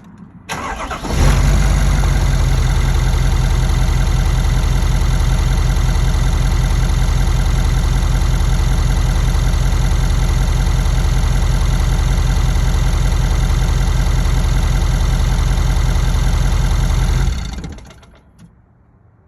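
2017 Ford F-250's 6.7-litre Power Stroke V8 diesel starting, then idling steadily with an even, rapid ticking, the 'sewing machine' noise the owner traces to the CP4 high-pressure fuel pump and fuel rails. About seventeen seconds in it is shut off and runs down, with a faint knock shortly after it stops.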